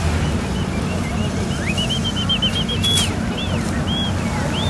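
Heavy road-construction machine engine running steadily with a low rumble. A run of short high chirps comes over it, quickest about two and a half seconds in.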